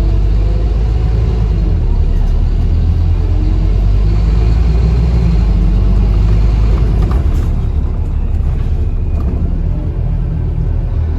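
Scania Enviro 400 double-decker bus heard from inside the cabin while under way: a steady low engine drone with road and body rumble. The deepest rumble eases about seven seconds in.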